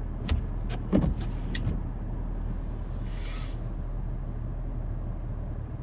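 A vehicle engine idling as a steady low hum, with a few sharp clicks in the first couple of seconds and a brief rush of hiss about three seconds in.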